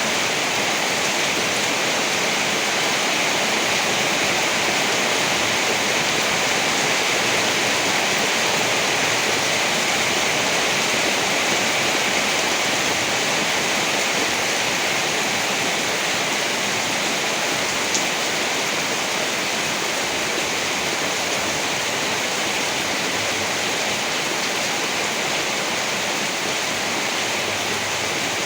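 Steady heavy rain: an even, unbroken hiss with no thunder, and a single small click about two-thirds of the way through.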